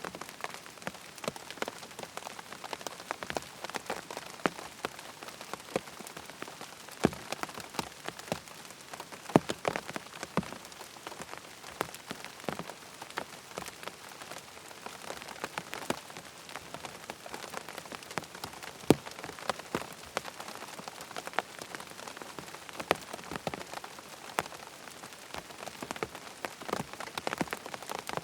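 Steady rain falling on a tent, a constant patter with many distinct, sharp drop hits on the fabric.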